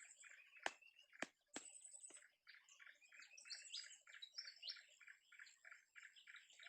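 Birds chirping in a fast, even series of short notes, about four a second. Three sharp clicks come within the first two seconds.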